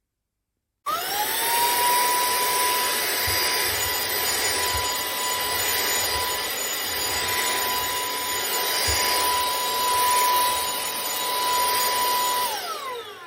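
TEMOLA cordless handheld car vacuum with a brushless motor, switched on about a second in. Its motor whine rises quickly to a steady high pitch over the rush of air, then drops in pitch and dies away as it is switched off near the end.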